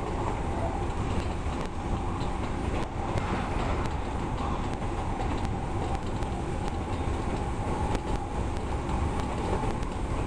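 Odakyu electric train running at speed, heard from inside the front car: a steady rumble of wheels on rail with occasional sharp clicks.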